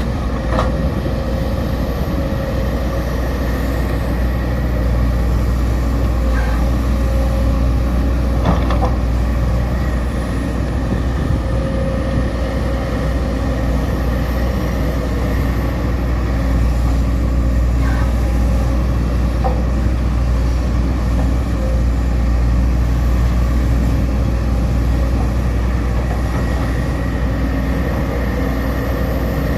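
Sumitomo SH210 hydraulic excavator's diesel engine running steadily while it works, with a few short knocks now and then.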